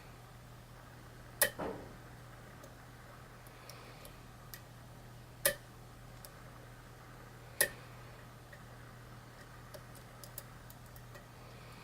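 Lock picking in a challenge lock: three sharp metallic clicks a few seconds apart, with faint ticks between them as the pick and tension wrench work the pins. A steady low hum runs underneath.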